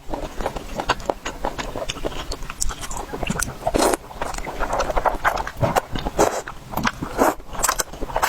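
Noodles being eaten close to the microphone: a dense, irregular run of wet chewing and biting sounds, with a longer slurp about four seconds in.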